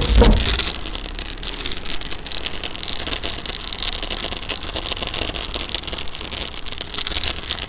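Kick scooter wheels rolling over rough asphalt pavement: a steady gritty rolling hiss full of small rattles, with a couple of heavy thumps at the very start.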